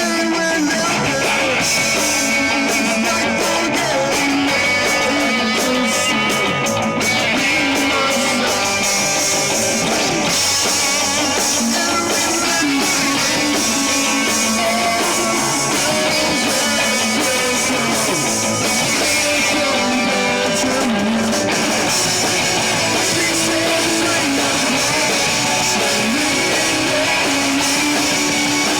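Live rock band playing: loud strummed electric guitars over a drum kit, a steady guitar-driven passage.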